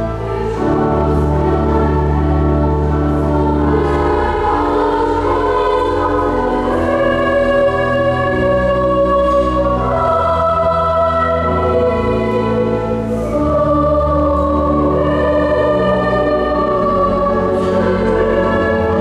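A choir singing sustained chords with pipe organ accompaniment, long-held low organ notes under the voices.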